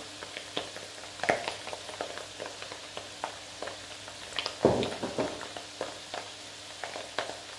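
Food frying in a pan, crackling steadily, with scattered clicks of a spatula stirring and one louder knock about halfway through.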